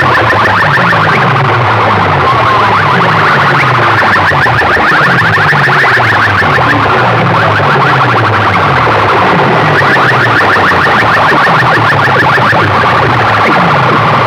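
Loud, distorted electronic DJ music blasted over large sound-box rigs, several systems clashing at once into a cacophony, with a falling bass pattern repeating over and over.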